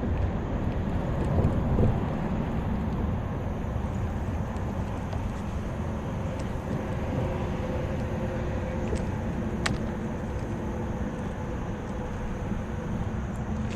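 Boat's outboard motor running steadily under way, with a faint steady hum through the noise.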